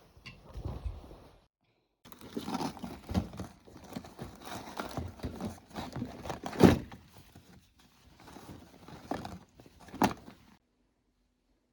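Everyday handling sounds: irregular knocks, taps and rustling of objects being moved about, with a sharp knock a little past halfway and another near the end. The sound cuts off abruptly twice, as at edits.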